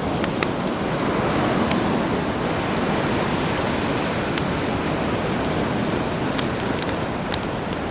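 A campfire crackling, with sharp irregular pops over a steady rush of sea surf.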